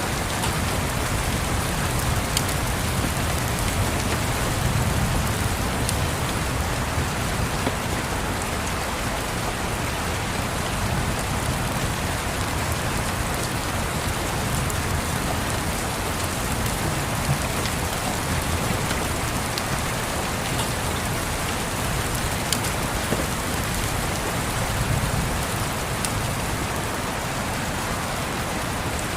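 Steady rain pattering on a window, with scattered sharp crackles from a wood fire and a soft low rumble of distant thunder swelling now and then.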